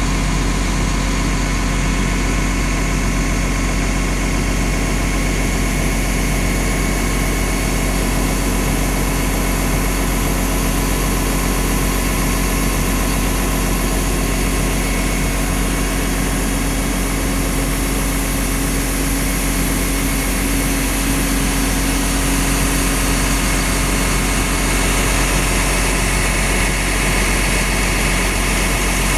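Cummins diesel engine of a Liugong CLG922E crawler excavator running at a steady idle-like speed, unchanging throughout.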